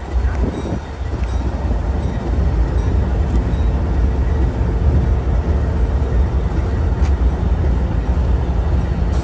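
Train running in the rail yard: a steady low rumble that grows somewhat louder after the first couple of seconds.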